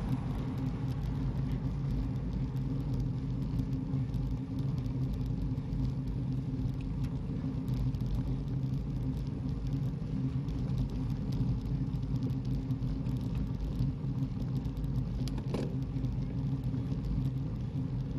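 Steady low rumble of a car driving, with an even drone that does not rise or fall. A brief sharper sound cuts through near the end.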